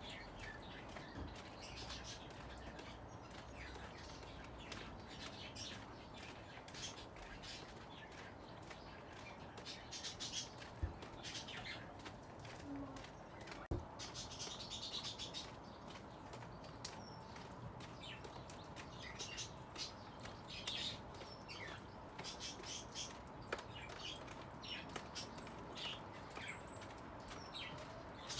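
Birds chirping: a steady run of many short, high calls.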